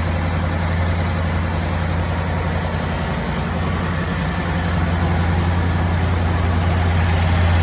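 1957 Ford Thunderbird's Y-block V8 idling steadily, holding a high idle on a cold start.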